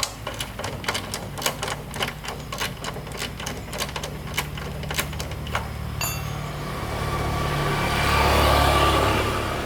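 Quick, irregular clicking and tapping, about three or four clicks a second, over a steady low hum for the first six seconds. Then a rushing noise swells to its loudest near the end and eases off.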